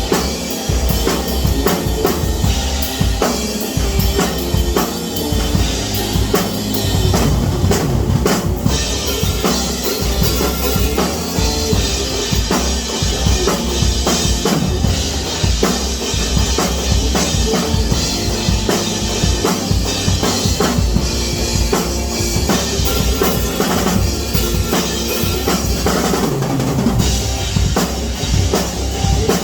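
Music with a prominent drum kit: kick drum and snare hits over a heavy bass line, running steadily and loud.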